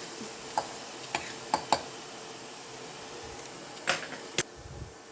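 Steak fillet sizzling in a hot salt-lined frying pan, with a handful of sharp clicks and knocks of a utensil against the pan; the sizzle drops away near the end.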